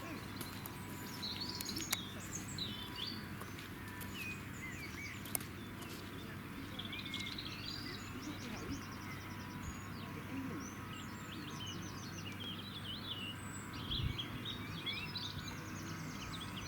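Small birds singing, a busy run of quick chirps and trills, over a steady low background noise. There are a couple of sharp clicks, and a low thump late on.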